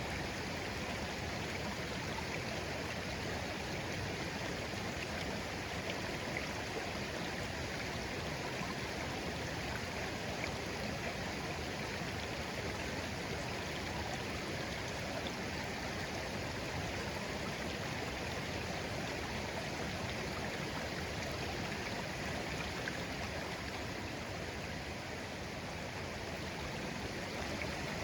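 Shallow stream of clear water flowing steadily over stones, a continuous even rush with faint small splashes and trickles.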